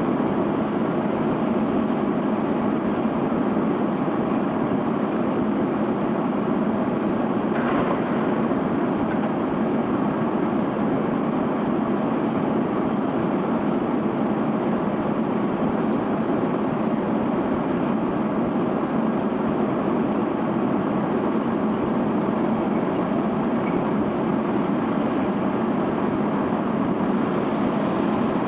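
Sand ship's unloading conveyor belt running with sand pouring off it: a steady, unchanging mechanical noise. A faint brief click about seven and a half seconds in.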